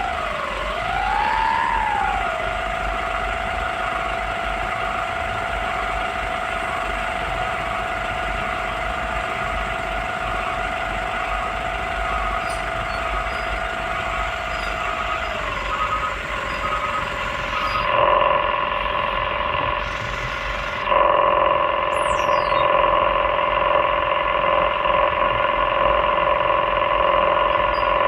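Hydraulic excavator running, its engine and hydraulic pump giving a steady whine that dips and rises in pitch in the first couple of seconds, settles lower about halfway through, and turns louder in two sudden steps later on.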